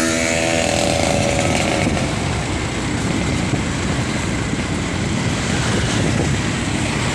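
Motorcycle engine running steadily while riding, with a buzzing pitched tone that fades out about two seconds in, over a dense rumble of road noise.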